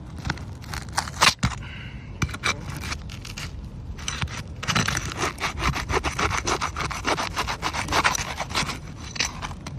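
Metal snake tool scraping and prying under asphalt roof shingles to break a stubborn tar seal strip, in rapid, rough scraping strokes that get busier in the second half, with a sharp knock about a second in.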